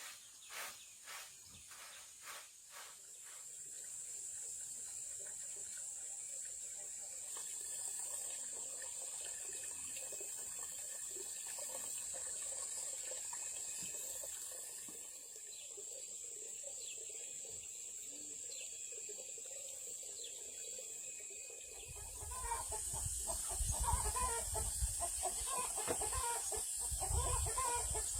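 Chickens clucking over a steady high-pitched insect drone. About three-quarters of the way through it grows louder, with a low rumble under the clucking.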